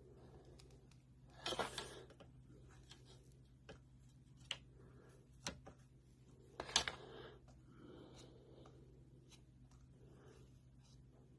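A few light clicks and taps of hand work with a plastic welder and filler on a plastic part, the loudest about a second and a half and nearly seven seconds in, over a low steady hum.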